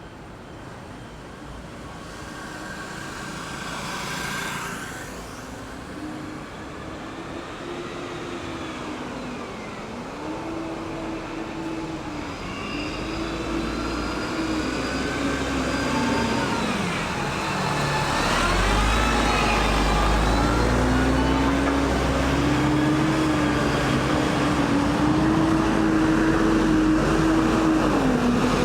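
Road traffic passing at a roundabout: vehicle engines rising and falling in pitch as they go by, growing steadily louder. About two-thirds of the way in, a heavy, deep engine rumble joins close by and holds.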